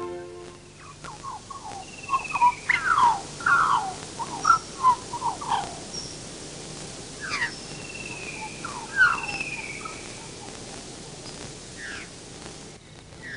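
Birds calling: flurries of short notes that slide down in pitch, one group over the first few seconds and another a little later, with a last call near the end, over a faint steady hiss.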